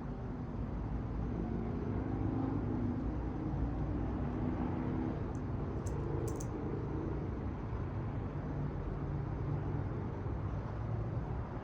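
Steady low rumble of a distant engine, with faint humming tones that shift slowly in pitch.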